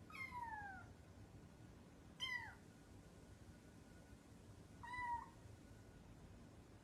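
A cat meowing three times: the first two calls fall in pitch, and the third is shorter and level.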